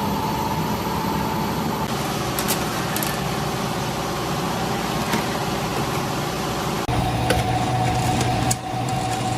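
Steady hum of running machinery, with a few light clicks. About seven seconds in it changes abruptly to a different, slightly stronger hum.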